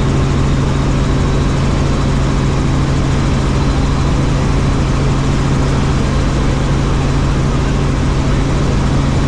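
Helicopter in flight: turbine and rotor running as a steady, loud drone with a constant low hum that does not change.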